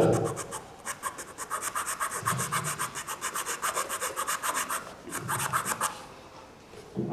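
Hand file rasping on wood in rapid short strokes, stopping near the end, as part of a wooden humming top is filed down.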